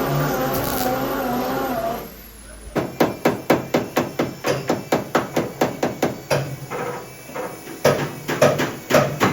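Background music for about two seconds, then a rapid run of hammer strikes, about three or four a second, typical of panel-beating dents out of car body sheet metal.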